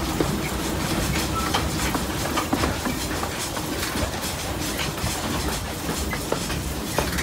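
A narrow-gauge railway train running along the track, heard from on board: a steady rumble with irregular clicks and rattles from the wheels and carriage.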